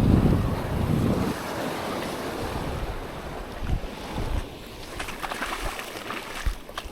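Surf washing on a sandy beach, with wind buffeting the microphone hard for about the first second, then a steadier wash of surf that slowly fades. A few light clicks near the end.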